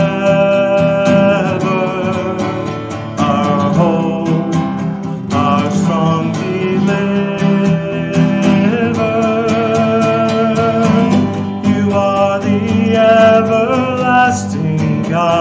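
A voice singing a worship song to a strummed acoustic guitar, with steady strumming throughout and held, gliding sung notes.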